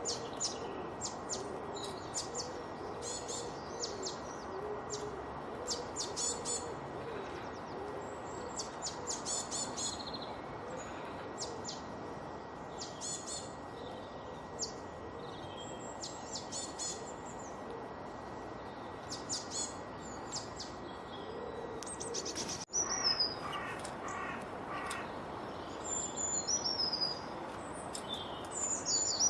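Several songbirds singing and chirping, with rapid high trills and short calls over a steady hiss of outdoor background noise. An abrupt break about 23 s in switches to different birdsong, with falling whistled notes and lower repeated calls.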